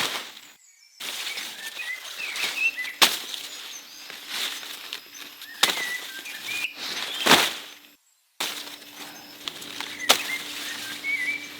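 Short bird chirps over a steady hiss, broken by a few sharp clicks or knocks.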